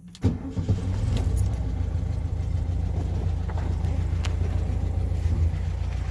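1971 VW Super Beetle's air-cooled flat-four starting up: it catches about a quarter second in and settles into a steady idle. The exhaust note through its small pea-shooter tailpipes is quiet.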